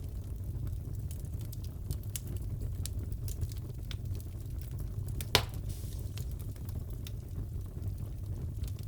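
Crackling fireplace: a steady low rumble of burning with scattered small pops and snaps, and one louder pop about five seconds in.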